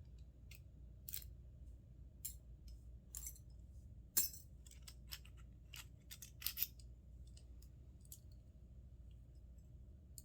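Small metal doorknob parts clicking and clinking as they are handled and worked apart, in scattered sharp ticks with a louder clink about four seconds in and a quick run of clicks a little after six seconds.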